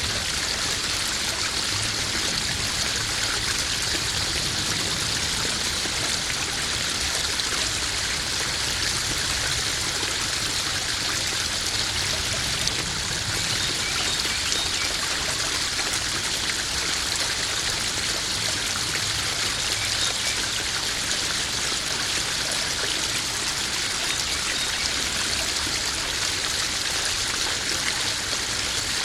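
Small garden koi-pond waterfall: water splashing and trickling steadily into the pond.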